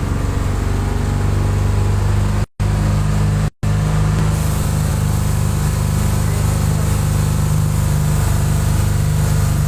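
Truck engine running steadily on the move, a deep, even hum. The sound cuts out completely for a moment twice, about two and a half and three and a half seconds in.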